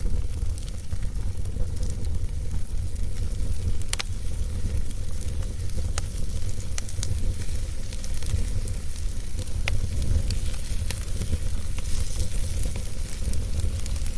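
Wood fire burning in a fireplace: a steady low rumble and hiss of the flames, with scattered sharp crackles from the burning wood every second or two.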